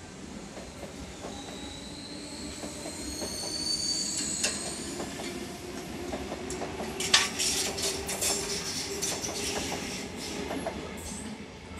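Sydney Trains Tangara electric train passing over curved track and pointwork: its wheels squeal in a high, wavering whine for the first few seconds, then clatter over points and rail joints in a run of clacks, the loudest about seven seconds in, over a steady rumble of the moving cars.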